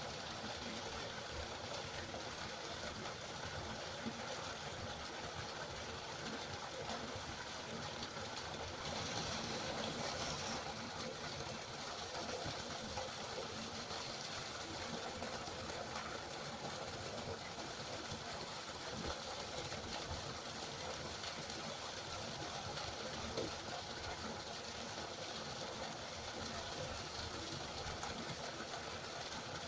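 A river flowing steadily, an even rushing of water with a brief brighter hiss about nine seconds in.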